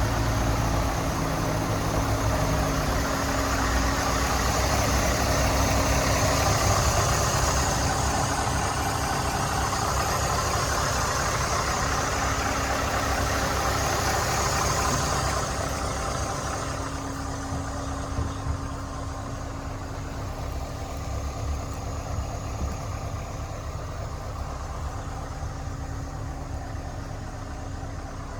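Scania S 580 tractor unit's V8 diesel engine idling steadily. It runs louder for the first half and drops to a quieter, lower idle about halfway through.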